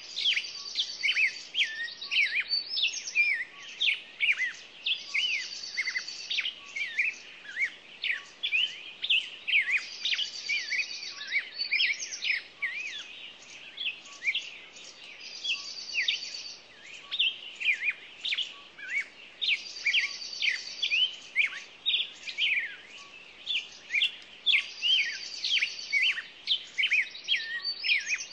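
Many small birds chirping and calling at once in a dense, busy chatter of high chirps and whistles. One short phrase of quick high notes repeats about every five seconds.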